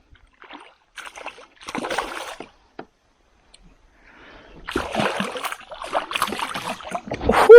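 Water splashing and sloshing beside a kayak as a hooked smallmouth bass is fought close in. The sound comes in irregular bursts, a few early and then a busier run in the second half, loudest near the end.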